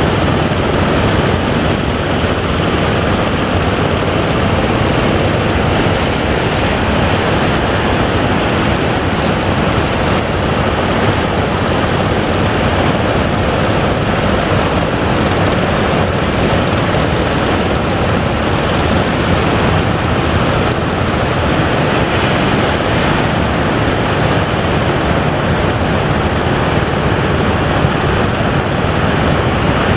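Big ocean waves breaking continuously: a loud, steady rush of surf.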